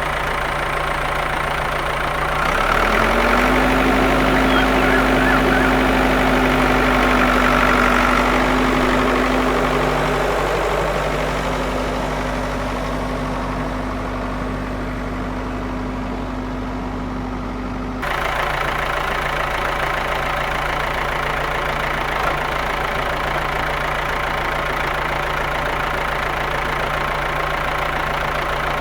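A small electric motor running with a steady hum; a whine rises in pitch as it spins up a couple of seconds in, holds steady, then stops abruptly about two-thirds of the way through while the low hum carries on.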